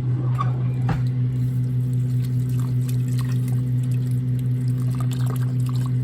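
A steady low hum runs throughout, with a sharp clink about a second in and scattered lighter clicks and scraping of food being mixed in a bowl.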